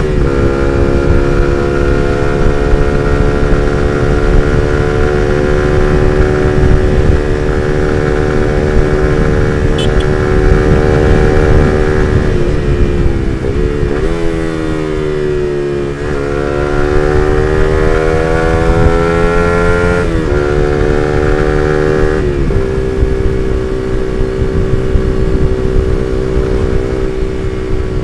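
Suzuki GSX-R150's single-cylinder engine through an R9 Misano aftermarket exhaust, heard on board while riding at steady revs. Past the middle it drops in pitch as the throttle eases off, then climbs again and upshifts twice near the end. Wind rumble on the microphone sits underneath.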